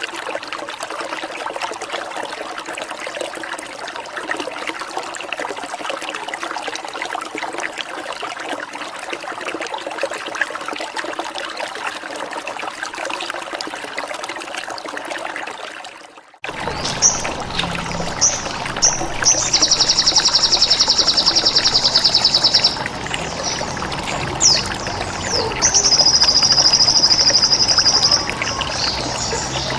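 Steady trickling water for about the first half; after an abrupt cut, recorded birdsong takes over: short high chirps and two long, high buzzing trills of about three seconds each, part of a songbird training recording.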